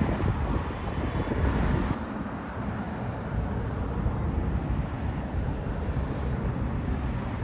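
A passing train's rumble fading away, with wind buffeting the microphone; about two seconds in the sound drops abruptly to a steadier low wind rumble.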